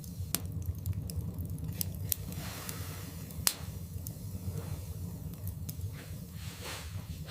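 Wood fire burning in a fireplace: scattered sharp crackles and pops over a steady low rumble, the loudest pop about three and a half seconds in, with a few soft hissing swells.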